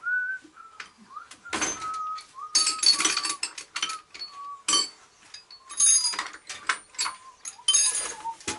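A person whistling a slow, wandering tune while metal tools and parts clink and knock.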